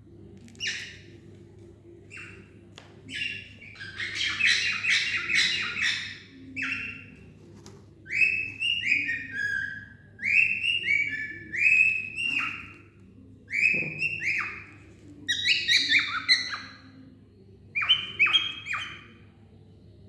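A cockatiel chirping and calling in repeated bursts of short, shrill notes, some stepping down in pitch.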